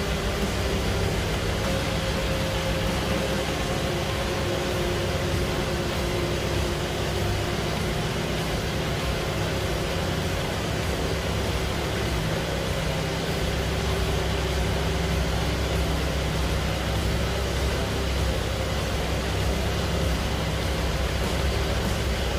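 Car engine idling steadily, a low rumble under an even hiss, with a few faint wavering tones.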